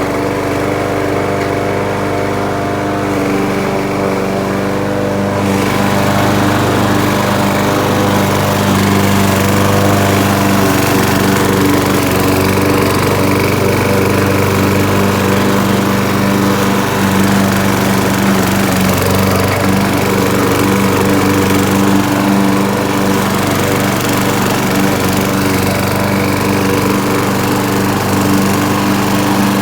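Gas lawn mower engine running steadily while mowing, a constant engine drone with added hiss from about five seconds in.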